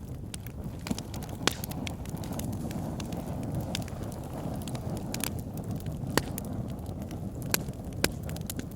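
Fire pit fire crackling: irregular sharp pops and snaps, a few of them louder, over a steady low rumble.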